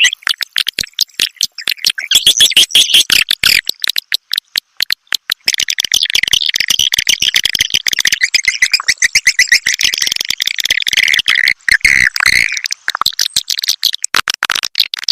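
Swiftlet lure call track: dense, rapid twittering chirps of edible-nest swiftlets over a fast run of clicks.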